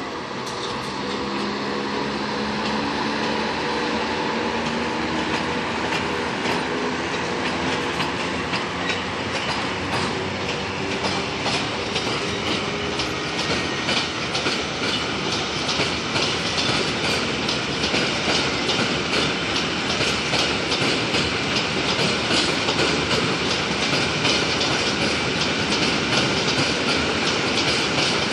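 Electric train running along the rails, its wheels clattering rhythmically over rail joints, the clatter growing denser and louder in the second half. In the first half a whine from the train's electrical equipment shifts in pitch in small steps.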